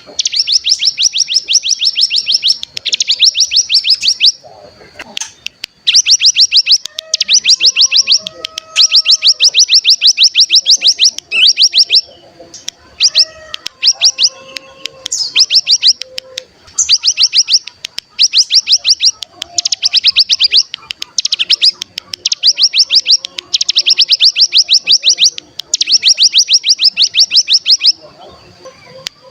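Ciblek gunung (cigun) singing its fast rattling trill, the 'ngebren', in high-pitched bursts of one to two seconds repeated with short gaps, with fainter lower calls in between.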